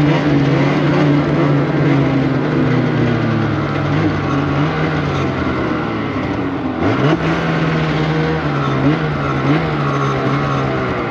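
Polaris Indy Cross Country 600 snowmobile's two-stroke engine running at a steady pace. About two-thirds through, the throttle eases off and the pitch drops, then it comes back on and climbs again with small throttle changes.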